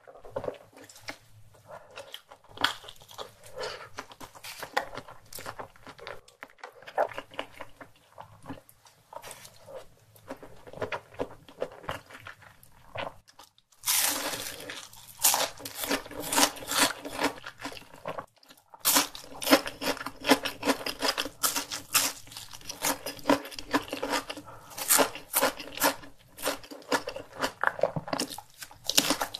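Close-miked eating sounds: soft, wet chewing of a fried egg on ham, then, about halfway through, a crispy hash brown is bitten and chewed with loud, rapid crunching and crackling.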